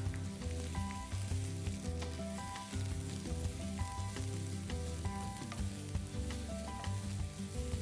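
Sliced spring onions sizzling and crackling in hot oil in a non-stick pan while a wooden spatula stirs them, over a soft background music melody.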